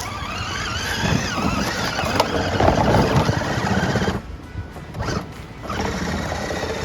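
Electric drive motors of a Power Wheels ride-on truck whining under load on rough ground, the pitch wavering. They cut out for about a second and a half, then start up again.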